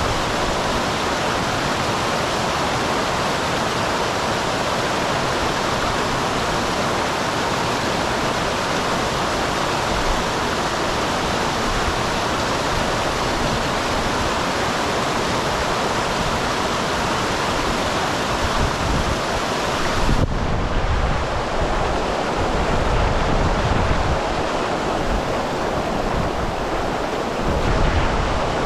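Small waterfall on a mountain stream, water rushing and splashing in a steady, even roar. From about two-thirds of the way through, low rumbling buffets mix in, like wind on the microphone.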